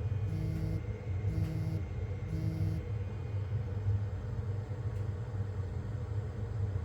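Bluetti EB200P portable power station beeping: three short, identical electronic beeps about a second apart that stop about three seconds in, over a steady low hum.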